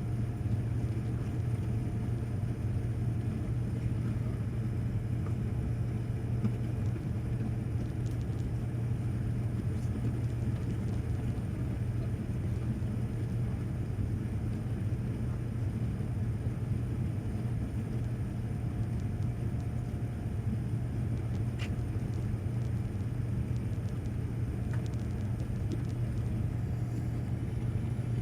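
Steady in-cabin drone of a Boeing 787-9 climbing out after takeoff: engine and airflow noise with a strong low hum, unchanging throughout.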